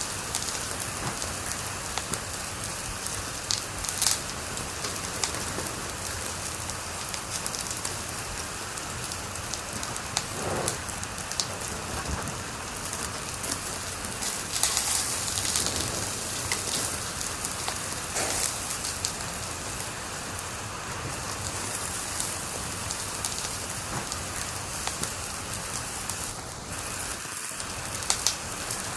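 Wood fire in a fireplace crackling steadily over a soft hiss, with scattered small pops and a few louder ones, about four seconds in and near the end.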